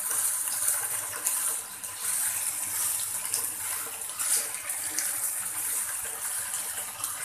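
Cut okra sizzling as it fries in hot oil in a non-stick frying pan, with a spatula stirring and scraping through it now and then. This is the okra being briefly fried so that its slimy texture goes.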